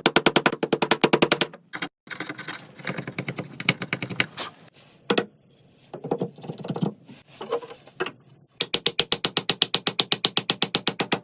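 Rapid, evenly spaced sharp clicks, about ten a second, in two runs: one at the start and another from about three seconds before the end, with irregular knocks and clicks between.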